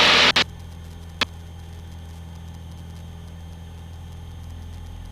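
Aerobatic aircraft's engine heard as a steady low drone through the cockpit intercom, after a loud rush of open-microphone noise that cuts off abruptly about half a second in. A single sharp click about a second in.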